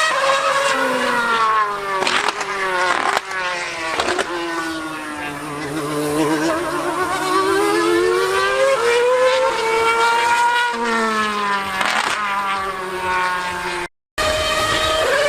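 High-revving racing engine running hard, its pitch falling and climbing again several times with sharp breaks at the gear changes. The sound cuts out for a moment near the end.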